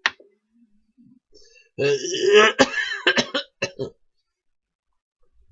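A person's voice making a raspy, throaty noise for about two seconds in the middle.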